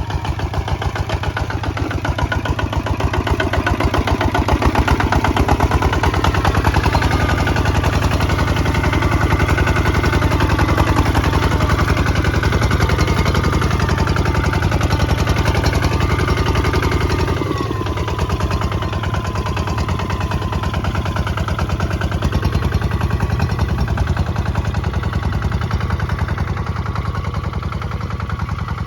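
Kubota ZT155 DI walking tractor's single-cylinder diesel engine running steadily with a fast, even knock while plowing. Its note and loudness drop a little about 17 seconds in.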